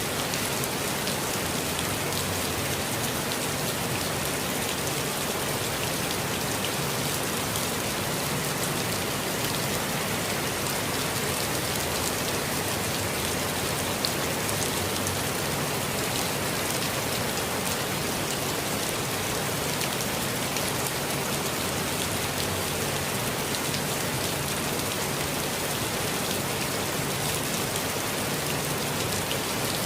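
Steady rainfall in a forest, with a dense patter of drops landing on surfaces and one slightly sharper drop tick about halfway through.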